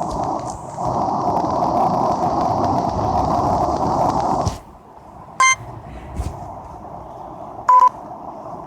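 A steady rushing noise cuts off suddenly about halfway through, followed by two short electronic beeps a couple of seconds apart.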